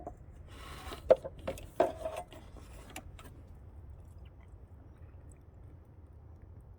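A few sharp clicks and short scraping noises over the first three seconds, two clicks standing out loudest, then only a low steady hum.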